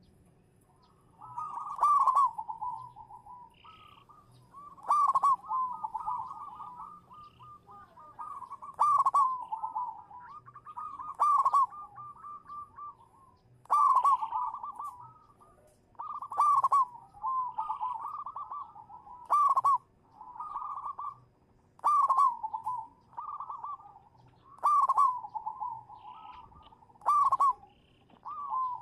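Zebra dove (perkutut) singing: repeated short phrases of rapid, rolling coos, one phrase every two seconds or so with brief pauses between.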